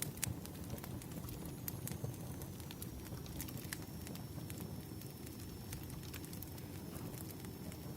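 Wood fire burning with a steady low rumble and irregular sharp crackles and pops, and a faint high whistle from about two seconds in.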